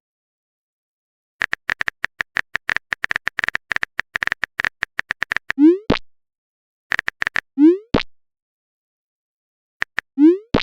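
Phone-keyboard typing clicks in quick runs, a long run at first and shorter ones later. Each run is followed by a short rising 'bloop' of a chat-app message sound, three times in all.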